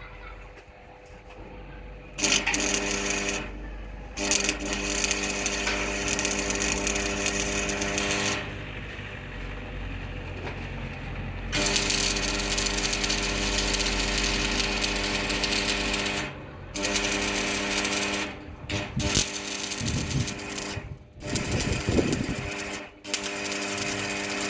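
Electric power tool motor running in repeated bursts, switched on and off: long runs of several seconds first, then shorter bursts near the end.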